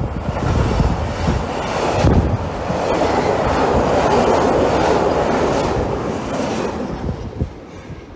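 Container freight train's wagons rolling past, a steady rumble of wheels on rails with scattered clanks. The sound fades away near the end as the last wagon passes.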